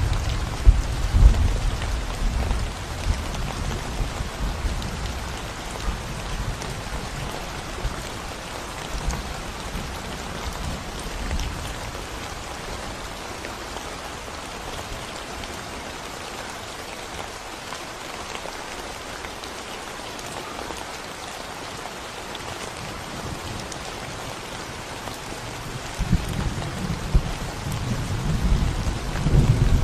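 Rain falling steadily on a concrete road, an even patter of drops. A low rumble under it at the start fades over the first few seconds and comes back near the end.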